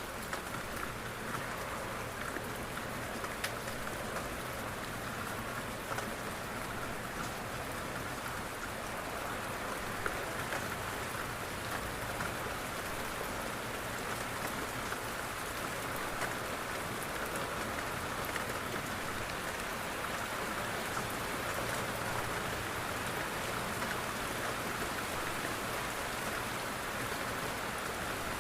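Steady rain falling on a window pane: an even wash of rain with many small, scattered drop taps.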